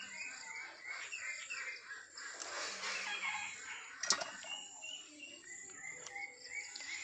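Birds chirping in short repeated calls, over a steady high-pitched hum, with one sharp click about four seconds in.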